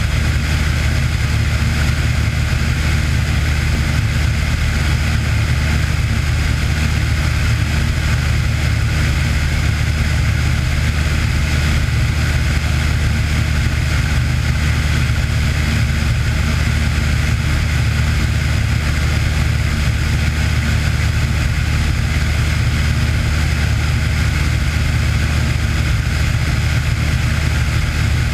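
Cessna 182 single-engine piston aircraft's engine and propeller running in a steady, unchanging drone.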